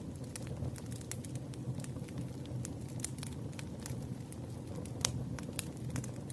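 Campfire crackling: irregular sharp pops and snaps over a low, steady rumble of burning, with the loudest pop about five seconds in.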